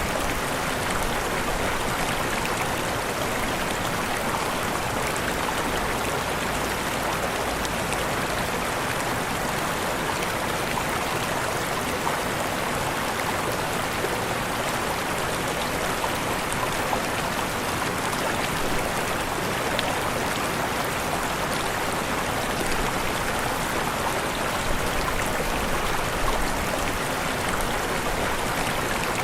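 Waterfall: falling water rushing in a steady, unbroken stream.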